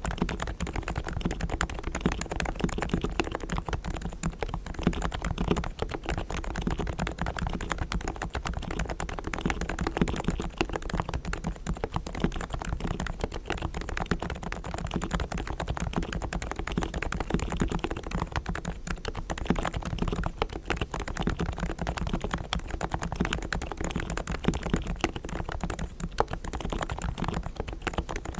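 Fast continuous typing on a Realforce R3 tenkeyless Topre electro-capacitive keyboard with silent 45 g switches, fully lubed with Krytox and damped. The keystrokes sound muted and soft.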